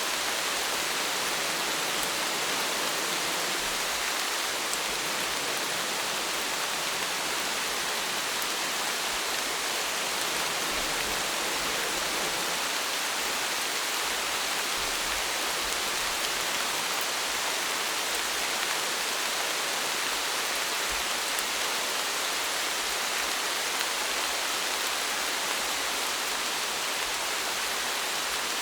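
Steady rain falling, a dense even hiss of many drops with no breaks.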